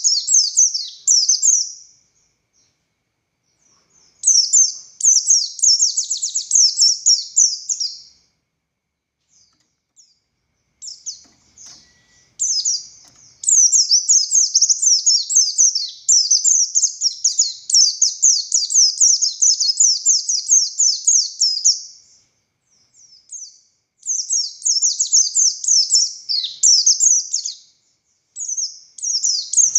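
Buxtoni white-eye (pleci) singing a fast, high twittering song in long phrases broken by short pauses, the longest running about ten seconds through the middle. This is the long, full-throated song that keepers call ngalas, used as a tutor recording for other white-eyes.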